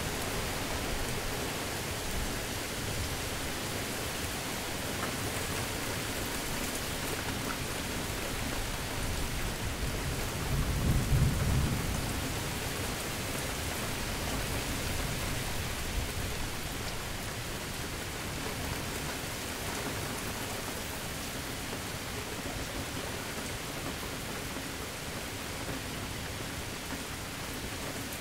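Steady rain falling, with a low roll of thunder that swells about a third of the way in, peaks and fades over a few seconds.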